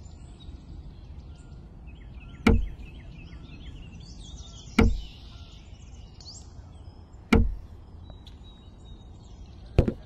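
Four sharp, dull thuds roughly two and a half seconds apart as miniature clay brick wall panels are set down onto the sand base, over a steady low background hiss and faint bird chirping.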